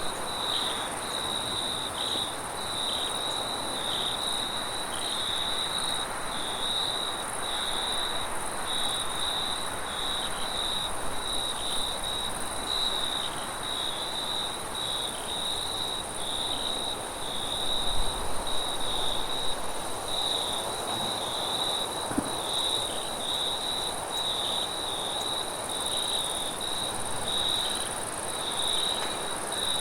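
Crickets trilling steadily in a continuous high chirring with a regular pulse, a fainter, higher insect hiss above it, over a steady wash of wind. A brief low rumble comes about 18 seconds in.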